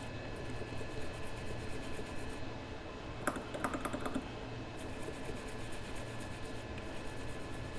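Rapid light clicking of keys being typed on a computer keyboard, with a louder flurry of key presses about three seconds in, over a faint steady electrical hum.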